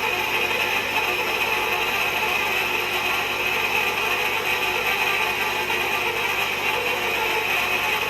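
Steady mechanical ratchet clicking from a manual hot tapping machine being cranked by hand to drive its cutter.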